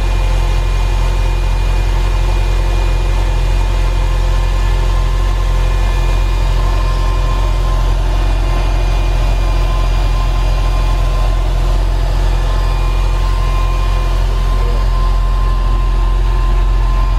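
1999 Porsche 911 (996) water-cooled 3.4-litre flat-six idling steadily with the engine lid open, running strong and smooth.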